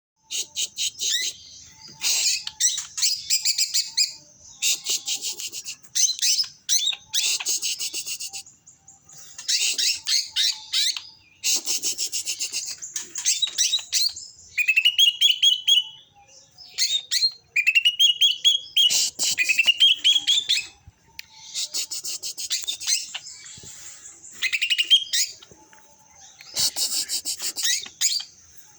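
A songbird singing in repeated high-pitched phrases of rapid trills and chatter, each a second or two long with short pauses between. Several phrases include a run of quick rising slurred notes.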